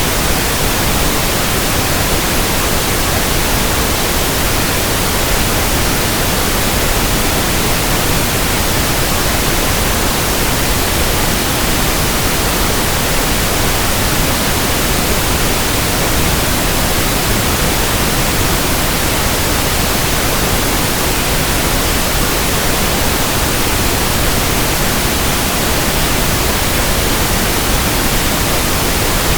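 Steady pink noise: an even, unchanging hiss spread across all pitches, with no tones or events in it.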